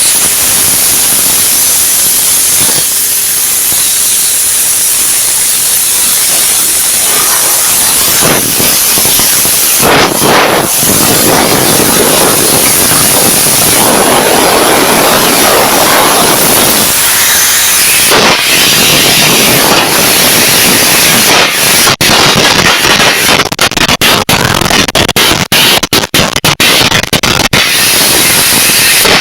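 Air carbon arc gouging torch: a loud steady rush of compressed air with the arc crackling, and a dense run of sharp pops and snaps in the last several seconds.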